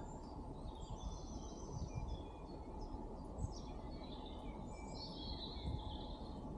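Several birds chirping and trilling over a steady low outdoor rumble.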